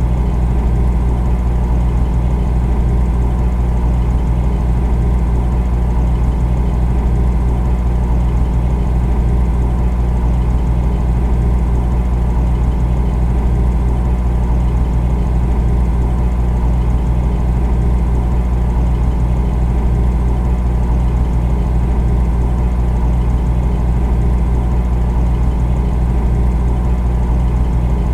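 Refrigerator running: a steady low hum that does not change.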